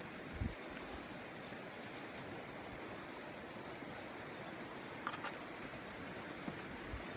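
Steady rushing outdoor noise, with one low thump about half a second in and a few faint clicks near the five-second mark.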